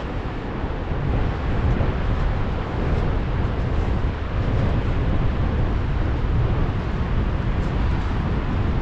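Merlin military helicopter heard overhead as a steady, loud low rumble of rotors and engines, mixed with wind on the microphone.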